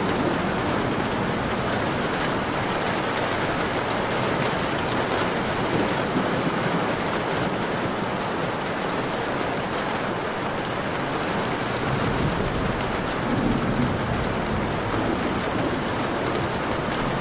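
Steady rain falling on a window pane: a dense, even patter with scattered individual drop ticks.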